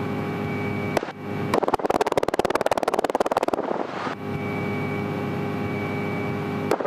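Light airplane's piston engine running steadily, heard through the cockpit intercom. About a second and a half in, a click is followed by about two seconds of rapid, even buzzing pulses, and another click comes near the end.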